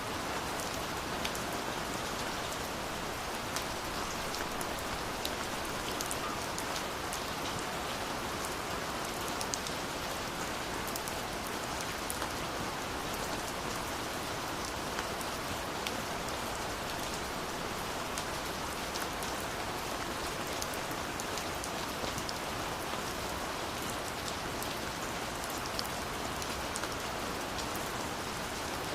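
Steady rainfall, an even hiss of falling rain with scattered sharper drop ticks.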